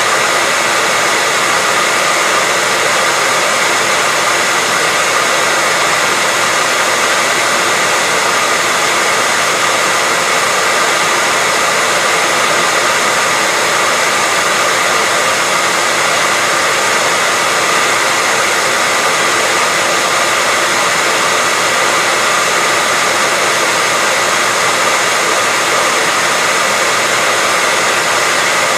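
Hair dryer running steadily: a loud, unchanging blowing hiss with a faint steady whine over it.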